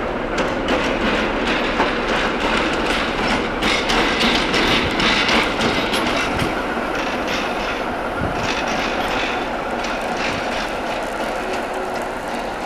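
Passenger coaches rolling past on the rails, their wheels clacking over the rail joints, loudest about a third of the way in and then easing as the last coach moves away.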